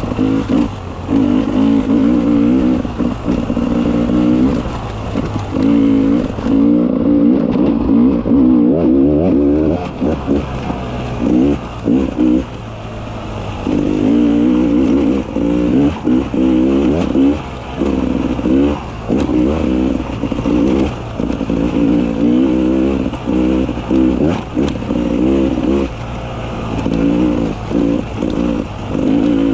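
Beta 300 RR two-stroke dirt bike engine being ridden on trail, revving up and down in short throttle bursts with frequent chops off the throttle.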